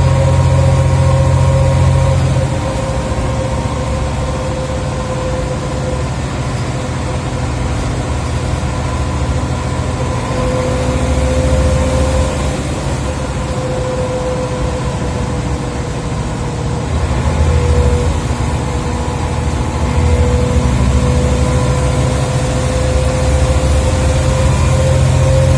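Scania OmniCity bus's engine and ZF automatic gearbox heard from on board, the engine note rising and falling with load under a steady whine. It is loudest at the start, eases off about two and a half seconds in, then builds up again several times.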